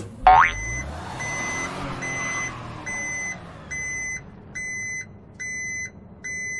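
Vehicle reversing beeper sounding as the animated school bus backs up: one high tone beeping about once every 0.8 s, roughly eight times, over a low engine rumble. A short loud rising sweep comes about a third of a second in.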